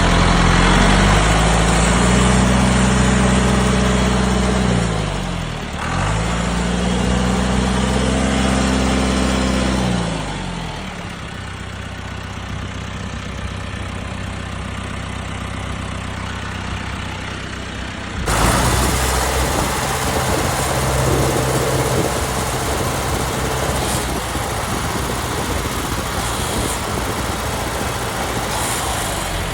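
John Deere 1830 tractor's diesel engine revved up and held twice, dropping back between the runs, then running steadily at a lower speed. Near two-thirds of the way through, the sound changes abruptly, and the engine runs on steadily.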